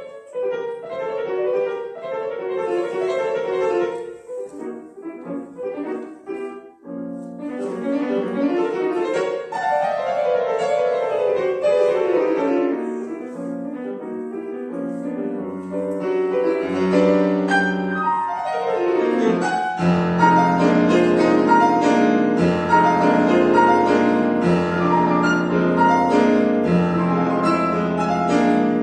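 Solo piano playing a classical piece: quick runs of notes in the middle register, quieter and sparser for a few seconds after the opening, then building. About twenty seconds in it thickens into dense repeated chords over a sustained low bass.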